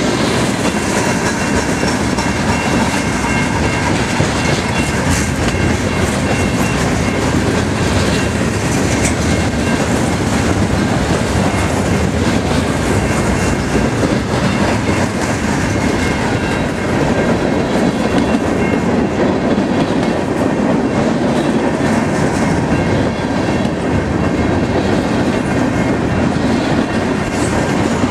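Norfolk Southern freight train's cars rolling past at close range: a steady, loud rumble of steel wheels on the rails with the clickety-clack of wheels passing over rail joints.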